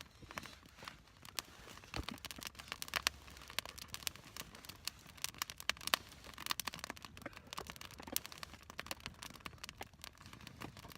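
Small wood fire of feather sticks crackling, with many sharp, irregular pops and snaps.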